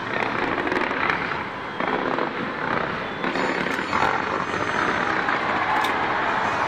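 Fireworks display going off in a dense, continuous run of crackling bursts and rumble, with fresh volleys setting in about two, three and four seconds in.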